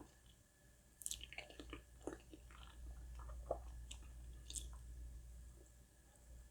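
A person chewing food close to the microphone, with a scatter of short wet mouth clicks and smacks beginning about a second in. The sound is quiet.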